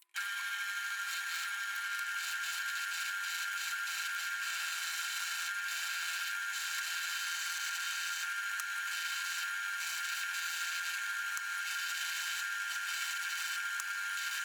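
Power tool running steadily as it cleans up used cylinder head bolts from a Harley Evolution engine, with a constant high whine.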